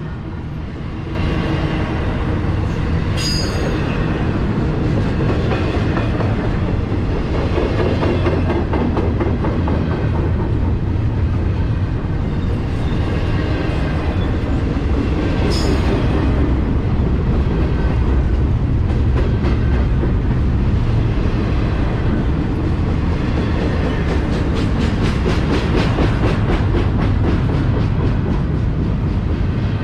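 CSX Q142 intermodal freight train rolling past: a loud steady rumble of wheels on rail with clickety-clack, and two brief high-pitched squeals, a few seconds in and about halfway through.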